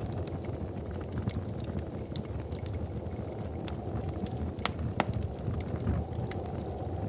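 Wood fire crackling in a fireplace: a steady low rush of flames with scattered sharp pops, two louder ones close together about five seconds in.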